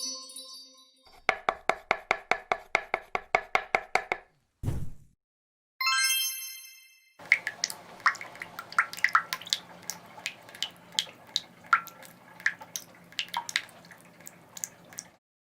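A series of short, separate everyday sounds one after another: a brief steady tone, about three seconds of rapid knocking at around seven strokes a second, a single low thud, and a ringing chime that fades. The series ends with about eight seconds of irregular clicks and drips over a faint hiss.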